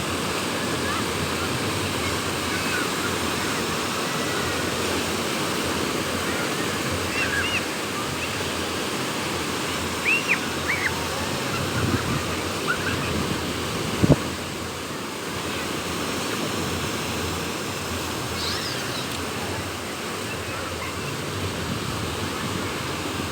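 Sea waves breaking on a beach with wind, a steady rushing wash of surf. A few short high chirps come and go, and a single sharp knock sounds about two-thirds of the way through.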